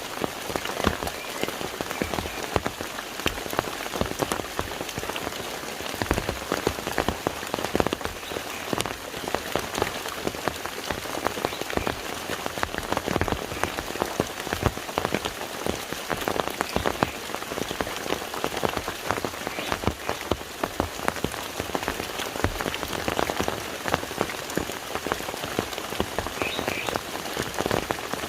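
Steady rain falling on a lake, a dense hiss of many individual drops pattering on the water.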